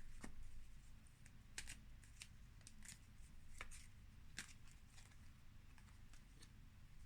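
Oracle cards being shuffled and drawn from a deck: faint, irregular snaps and slides of card stock, about a dozen in all, over a low steady hum.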